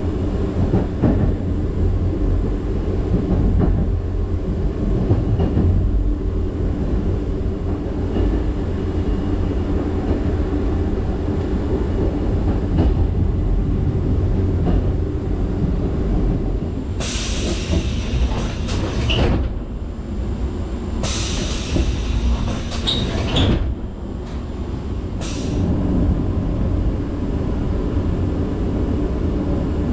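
Sleeping-car train in motion heard from inside the car: a steady low rumble of wheels on track. A little past halfway come two loud hissing, screeching bursts of a couple of seconds each, about four seconds apart, then a brief third one.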